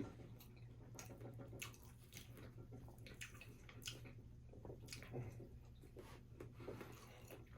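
Faint wet chewing and mouth clicks from someone eating fried chicken, scattered irregularly over a low steady hum.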